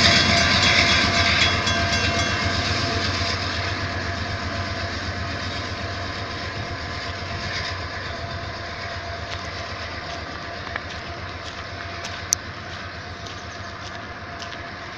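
Canadian Pacific train rolling over the rails at a level crossing, its wheel clatter fading steadily as it moves away. A sharp click comes about twelve seconds in.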